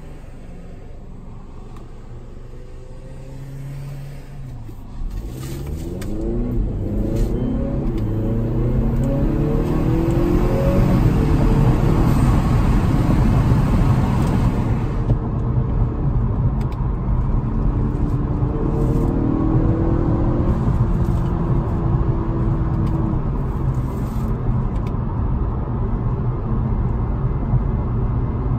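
Honda Accord 2.0T's turbocharged four-cylinder heard from inside the cabin, idling quietly at first, then accelerating hard about five seconds in, its note climbing in several rising sweeps. It then settles into steady highway cruising with road and tyre noise, with another rising pull later on.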